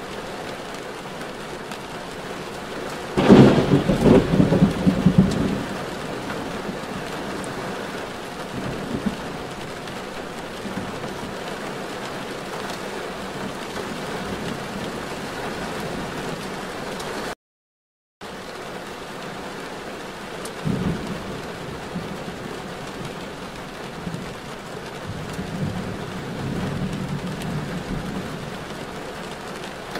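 Steady rain noise heard while driving in a downpour, with a loud rumbling burst about three seconds in that lasts a couple of seconds, and smaller swells later on. The sound cuts out completely for under a second midway.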